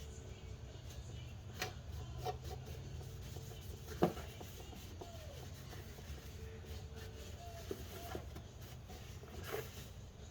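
Scattered light knocks and clicks of tools and parts being handled, the loudest about four seconds in, over a steady low hum.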